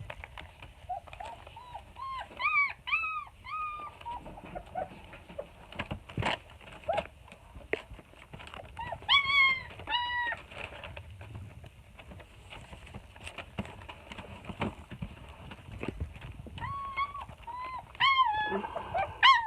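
Four-week-old German Shepherd puppies whining in short, high yips that rise and fall, in three bunches of several calls each. Scattered light taps and knocks come in between.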